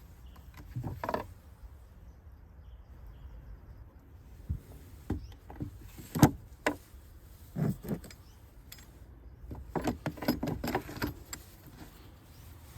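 Irregular clicks, knocks and light rattles of hands handling the plastic engine air filter housing and filter, with a cluster of quick clicks about ten seconds in.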